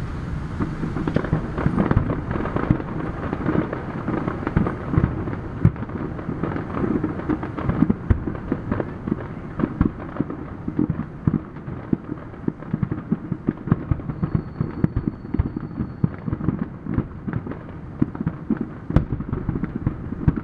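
Fireworks display going off: many sharp bangs and crackles in quick succession.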